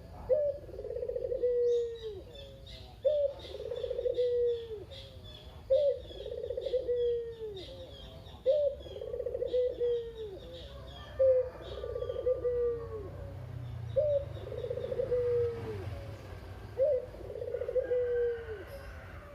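Puter dove cooing its "kugeru" call over and over, a low phrase with a sharp start and a falling end about every three seconds. Small birds chirp faintly in the background during the first half.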